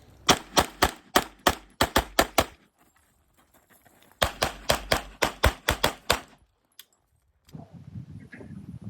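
Rapid handgun fire on a competition stage: a string of about ten quick shots, a pause of about a second and a half, then a second string of about ten shots.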